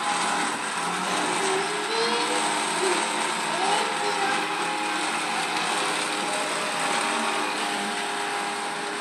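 Vacuum cleaner running steadily as it is pushed over the floor, a constant motor noise with a few steady tones in it.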